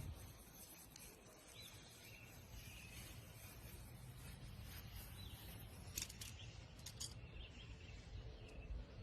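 Faint outdoor background with small bird-like chirps every second or so and a few light clicks near the end.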